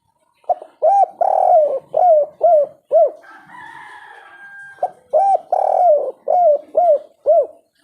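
Spotted dove cooing its 'kuk 3' song: two phrases of about six deep, hooting notes each, with a short pause between them in which a fainter steady tone is heard.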